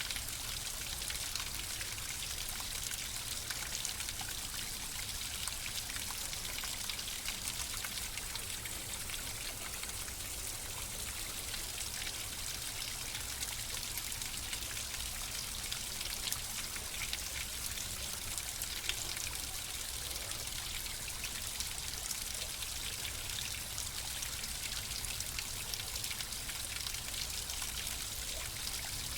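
Flowing water running steadily, a stream-like trickle with many small splashes and drips.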